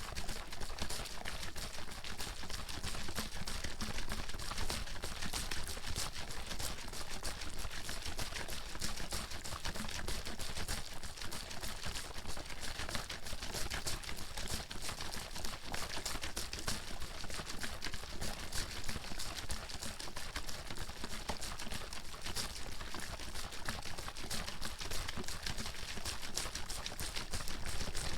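Water bottle being shaken continuously, the water sloshing and splashing inside in a fast, steady stream of rattles.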